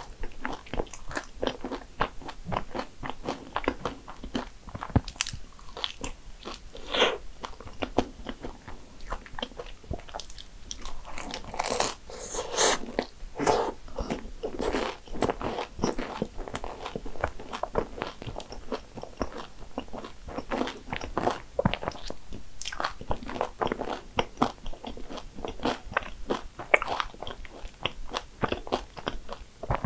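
Close-miked chewing of a flaky, cream-topped Danish pastry: many irregular small crunches and wet mouth sounds. Near the end come sips from a glass of iced coffee.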